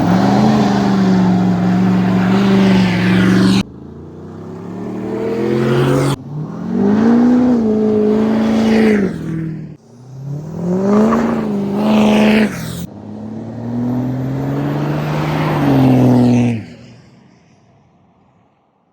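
A vehicle engine revs hard and is held at high rpm, its pitch rising and falling, as in a burnout. The sound comes in several clips cut abruptly one after another and fades out near the end.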